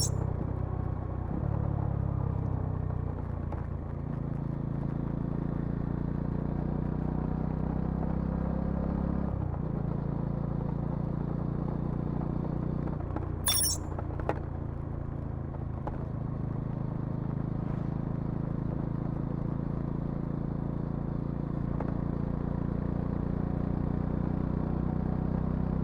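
Bajaj Dominar 400's single-cylinder engine and exhaust running steadily while the motorcycle is ridden, the engine note shifting pitch a few times. Two sharp clicks, one at the start and one about halfway.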